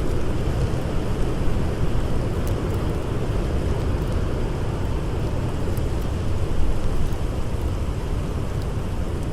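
Blizzard wind blowing steadily with a deep, even rush, and a few faint scattered crackles from a campfire.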